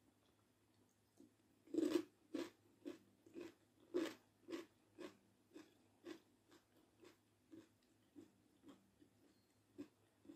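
Crunchy bite into a raw cucumber, loudest just before two seconds in, followed by steady chewing at about two chews a second that grows fainter toward the end.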